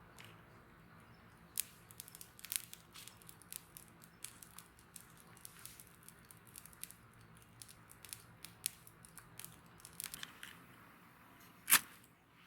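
Wood fire crackling, with irregular sharp pops and snaps over a low steady hiss; one loud pop near the end.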